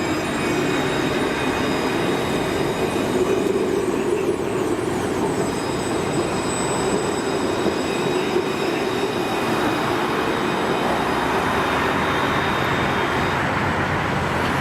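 Electric tram running on its rails, a steady rumble with several high-pitched whining tones over it that fade out near the end.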